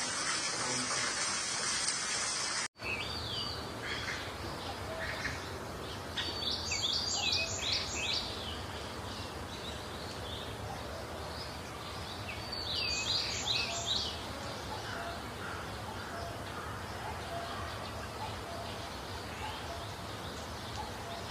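A steady water hiss for the first few seconds cuts off abruptly. Then birds call: scattered chirps and two bursts of quick, repeated notes, the second about six seconds after the first, over a low steady hum.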